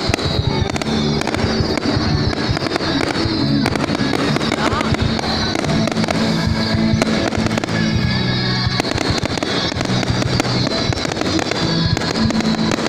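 Fireworks going off in a continuous barrage of bangs and crackling, with music playing loudly alongside.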